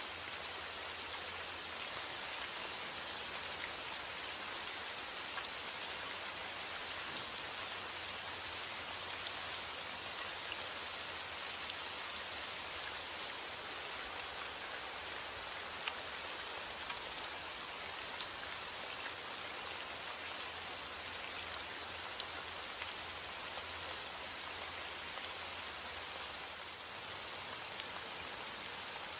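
Steady heavy rain: a dense even hiss of falling rain with the scattered patter of individual drops on a surface.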